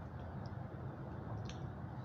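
A person eating rice and chicken wings by hand, giving a couple of short, faint mouth clicks from chewing over a steady low hum.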